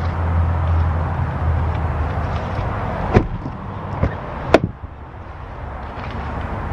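Pickup truck engine idling as a low steady hum that fades away over the first two seconds, then three sharp thumps of the truck's doors shutting, the third the loudest.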